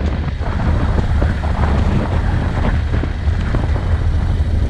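Vehicle engine running with a steady low rumble while driving a rough dirt track, with scattered knocks from bumps and wind buffeting the microphone.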